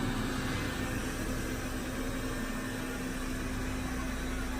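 Roborock E20 robot vacuum running, a steady hum from its suction fan and brushes with a constant low tone.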